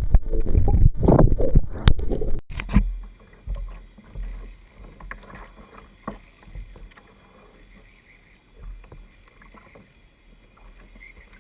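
Seawater splashing and sloshing against a fishing kayak, with a few sharp knocks, loud for about the first two and a half seconds; after a sudden break it drops to faint lapping and low rumble.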